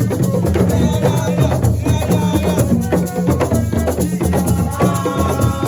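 Live dance music driven by dense drumming and shaker rattles over a steady bass line, with a held melodic line coming in near the end.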